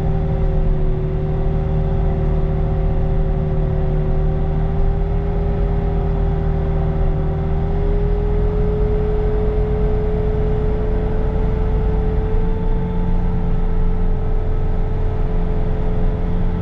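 Bobcat T66 compact track loader's diesel engine running steadily with its snow blower attachment, a low drone under a steady whine whose pitch rises slightly about halfway through, heard from inside the cab.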